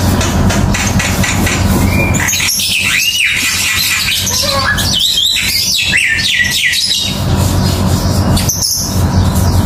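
Birds chirping in quick, rising-and-falling calls, thickest in the middle seconds, over a steady low background sound.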